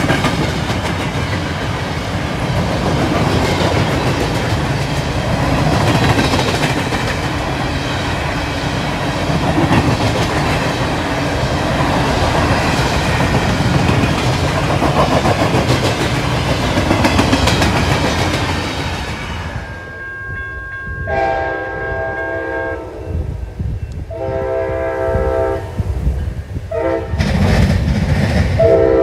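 Loaded-or-empty aggregate hopper cars of a CSX rock train rolling past close by, a steady rumble with wheel clatter over the rail joints. About two-thirds of the way in this gives way to an approaching Amtrak P42DC locomotive sounding its horn: two long blasts, a short one and a final long one, the grade-crossing signal.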